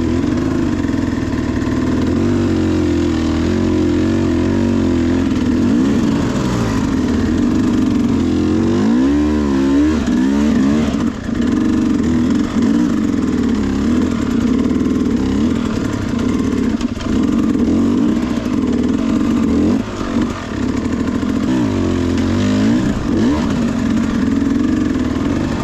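Sherco SE300 two-stroke dirt bike engine running hard under load, its revs rising and falling with the throttle, with quick surges of revving about a third of the way in and again near the end.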